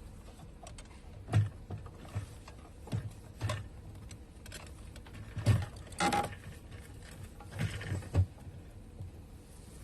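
Irregular knocks and clicks, about a dozen over several seconds, from parts being handled and fitted by hand during a fuel pump replacement. A few are sharper, and one carries a brief ringing tone.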